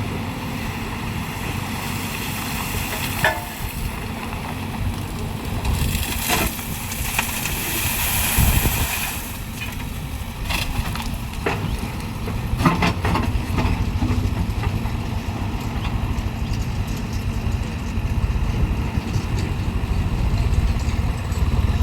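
Heavy diesel machinery engines running steadily under load, with several sharp knocks and clanks and a rushing hiss about six to nine seconds in.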